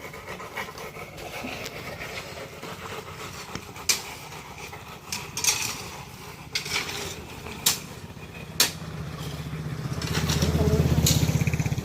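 A vehicle engine running, growing louder in the last few seconds, with several sharp knocks or clacks.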